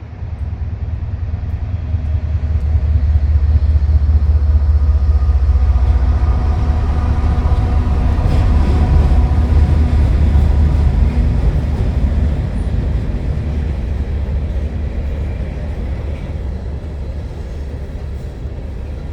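Freight grain train rolling past, a deep, heavy rumble of wheels on rail. It swells over the first few seconds, is loudest through the middle, and eases off toward the end.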